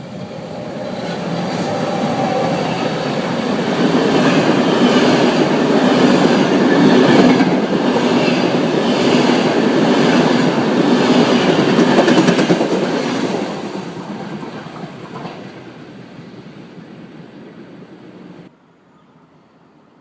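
A train passing through a station, growing louder, then running by with a rhythmic clatter of wheels over the rail joints, then fading away. The sound cuts off abruptly near the end.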